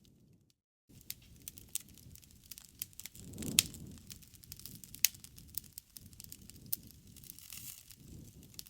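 Campfire burning: wood crackling with many sharp snaps over a low rushing of the flames, and two loud pops in the middle. The sound cuts out completely for about half a second near the start.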